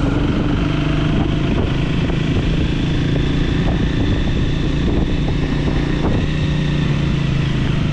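Triumph Speed 400's single-cylinder engine running steadily as the motorcycle rides up a winding hairpin road.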